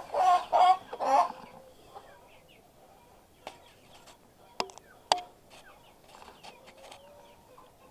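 Chickens clucking in a coop: a few louder calls in the first second or so, then softer scattered clucks, with a couple of sharp clicks in the middle.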